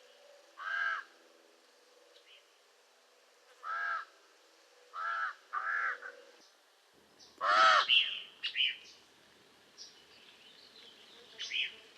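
Common raven calling: five harsh, hoarse calls spaced a few seconds apart, with a quick pair about five seconds in and the loudest call near eight seconds.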